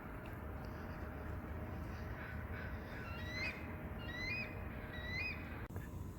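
A bird calling: three short calls about a second apart, each rising a little in pitch, with a few fainter calls just before them, over steady low background noise.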